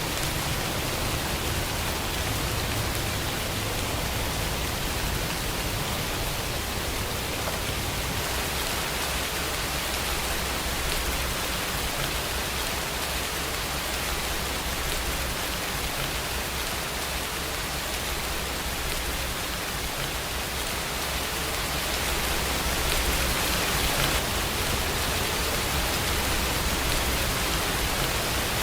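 Steady rain falling, an even hiss with a low rumble underneath, growing slightly louder a little over three-quarters of the way through.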